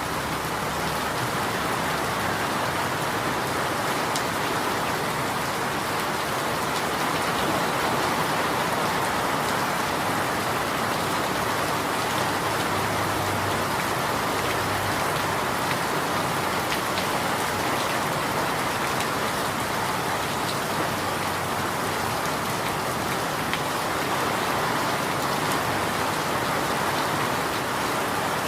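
Steady rain falling: an even hiss with scattered, faint drop ticks, holding the same level throughout.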